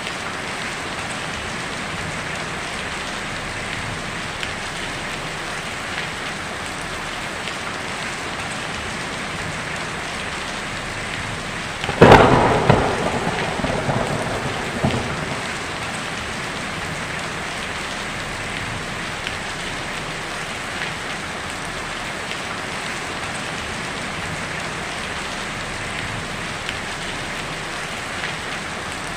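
Heavy rain falling steadily on a tin roof. About twelve seconds in, a sudden loud thunderclap breaks over it and rumbles away over about three seconds.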